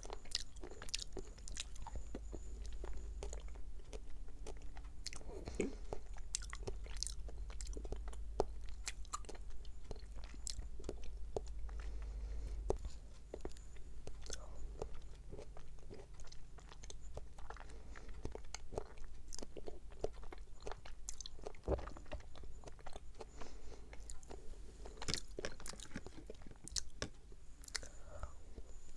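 Close-miked chewing of springy konjac jelly balls, with many quick wet mouth clicks and squishes throughout. A steady low hum sits underneath.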